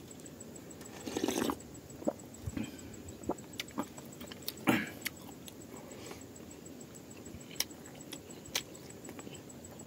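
Close-mic'd eating sounds: chewing and wet mouth smacks, as food is eaten by hand. A few louder smacks come about a second in and near the middle, and sharp clicks are scattered over a faint steady hiss.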